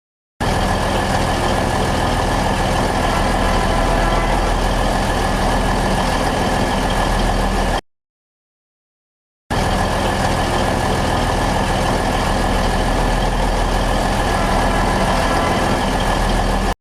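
Diesel-hydraulic locomotive's engines running steadily. The sound comes in two stretches of several seconds each, both starting and stopping abruptly, with a gap of complete silence of almost two seconds between them.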